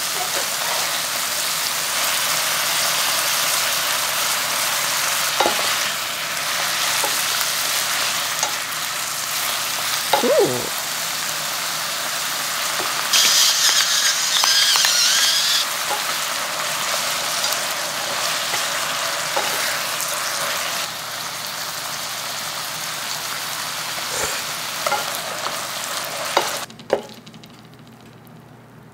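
Duck meat and bean sprouts sizzling steadily as they stir-fry in a pan, with chopsticks and a wooden spoon clicking against it. About 13 seconds in, a pepper mill grinds over the pan for a couple of seconds. The sizzling cuts off suddenly near the end.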